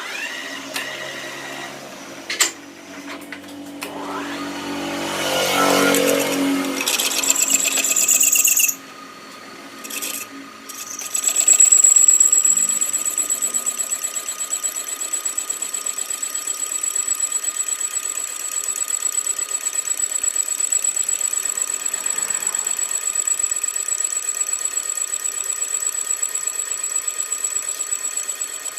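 Workshop machine tool running. For the first several seconds there is varied clattering and a rising swell, then a short drop. After that it settles into a steady high-pitched whine with a fast, regular pulse.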